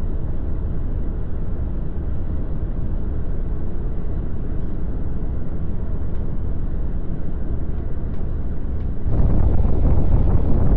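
Semi truck running, a steady low rumble heard from the cab, which turns louder and rougher about nine seconds in.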